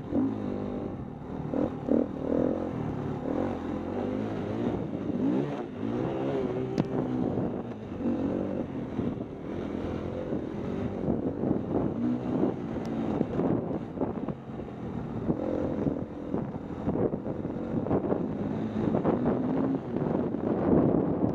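KTM 250 EXC-F single-cylinder four-stroke dirt bike engine revving up and down repeatedly, the pitch rising and falling every second or two, with wind buffeting the microphone.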